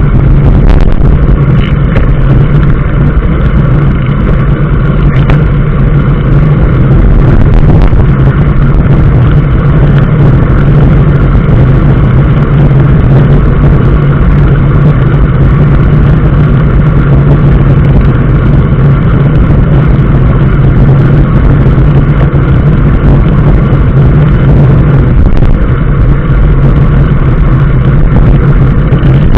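Steady low drone of a road vehicle in motion, running evenly without any change in pace.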